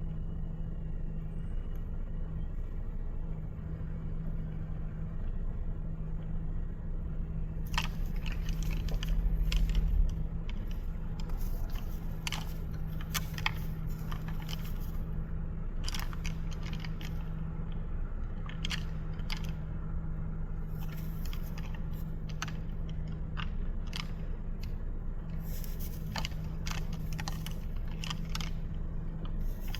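A car idling with a steady low hum, and irregular sharp clicks and knocks over it from about a quarter of the way in, with a brief louder low rumble around the same time.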